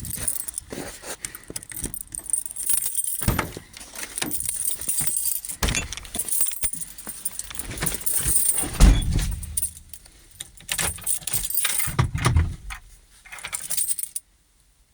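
A bunch of keys jangling, with a run of clicks and knocks and one heavy thump about nine seconds in. The sound cuts off suddenly near the end.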